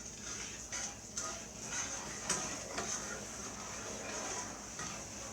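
A small spoon stirring sugar and water in a pot, with irregular scrapes and light clinks against the bottom as it breaks up the undissolved sugar there.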